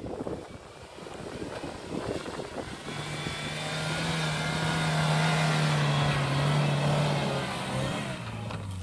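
A Suzuki Jimny's 1.3-litre four-cylinder petrol engine labours up a steep dirt bank. It starts with crackling tyres on loose dirt, then a steady engine note grows louder as the Jimny approaches and drops in pitch near the end as it passes.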